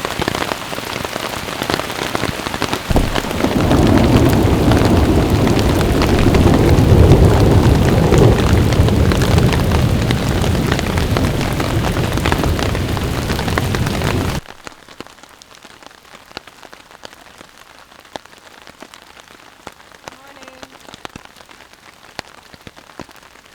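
Heavy rain falling steadily, with a long low rumble of thunder that builds about three seconds in and carries on for about ten seconds. It then cuts off abruptly to much quieter rain with scattered drop ticks.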